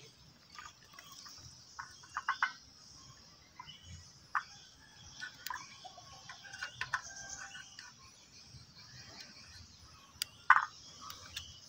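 Scattered short bird calls, the loudest near the end, over a faint steady high hiss, with a few light clicks.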